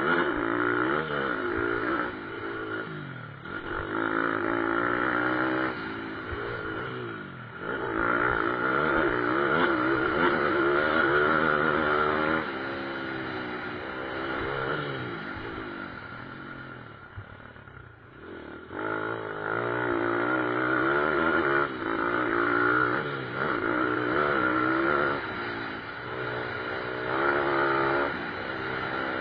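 Pit bike motorcycles racing, their engines revving up and dropping back again and again through gear changes and corners. The sound dips briefly a little past the middle, then rises again as bikes come closer.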